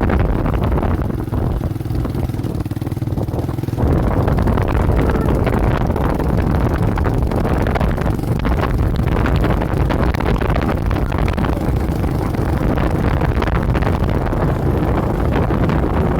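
Motorcycle engine running with a steady low note, then about four seconds in it turns to a louder, rougher rush with wind noise on the microphone, as if the bike pulls away and rides on.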